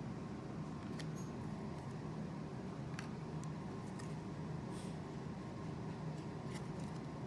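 Faint clicks and light handling of trading cards being sorted, a few scattered ticks over a steady low room hum.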